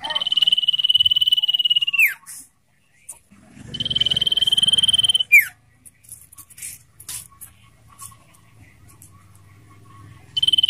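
Common iora giving its long trilled call: two drawn-out trills held at one high pitch, each ending in a quick downward slur, with short chips between them and a third trill starting near the end.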